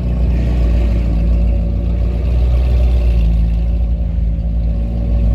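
A car engine running steadily, with a dense low hum that holds level throughout.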